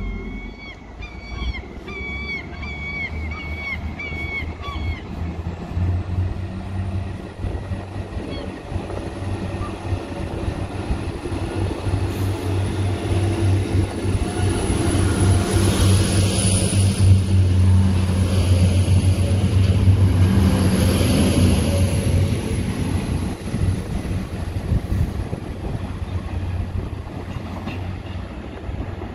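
Diesel multiple unit running into the platform and past close by, its engine drone building to a peak about halfway through and then easing off, with a thin high whine over the second part. A string of about ten short squawking calls sounds in the first few seconds.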